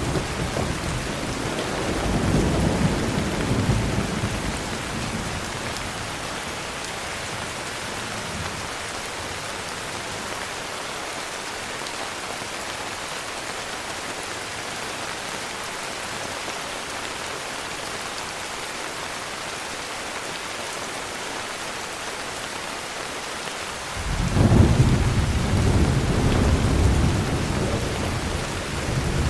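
Heavy rain falling steadily, with rolling thunder. A low rumble fades out over the first few seconds, then about 24 seconds in a louder peal of thunder starts suddenly and rumbles on for several seconds.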